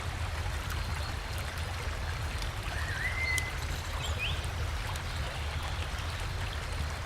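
River water rushing steadily, with a low rumble under it. A bird gives one wavering whistled note about three seconds in and a short rising chirp about a second later.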